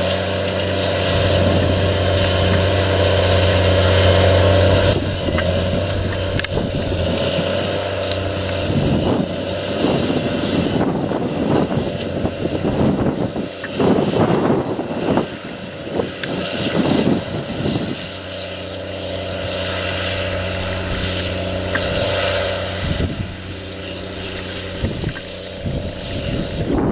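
An engine running steadily, with a rougher, noisier stretch in the middle.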